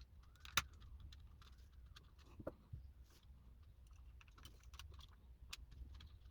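Faint, scattered light clicks and taps of thin metal clock hands being handled and pressed onto a quartz clock movement's shaft, with one sharper click about half a second in.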